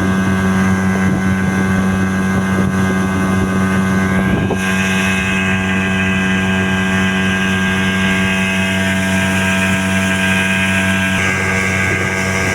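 Speedboat engine running steadily at speed, a constant low hum with wind and water noise over it.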